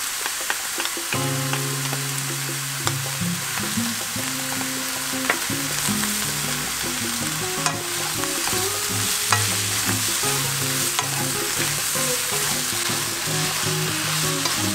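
Eggplant strips stir-frying in oil in a nonstick pan over medium-low heat: a steady sizzle, with a wooden spatula tossing and scraping the pieces and giving off scattered sharp clicks against the pan.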